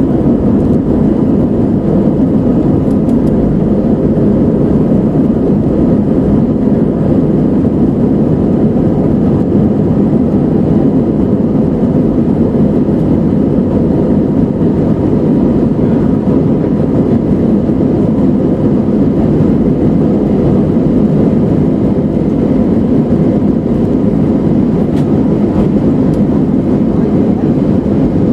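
Inside the passenger cabin of an Airbus A320-200ceo climbing out just after takeoff: the steady, deep noise of the jet engines and the airflow around the fuselage, holding at one level throughout.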